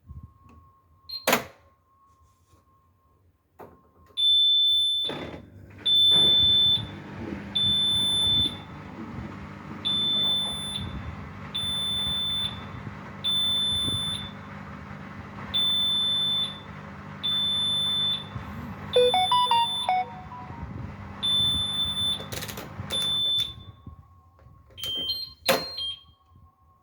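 Miele washing machine sounding a high repeated beep roughly every two seconds over a low motor hum, with a short run of stepped electronic tones near the middle and a few clicks at the start and end. The beeping is the machine's fault alert for an error in its TwinDos detergent-dosing motor (fault F0212).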